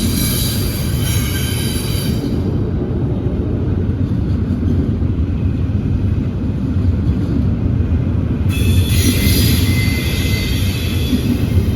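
A train passing, its cars making a steady low rumble on the rails, with high-pitched wheel squeal in the first couple of seconds that returns about two-thirds of the way through.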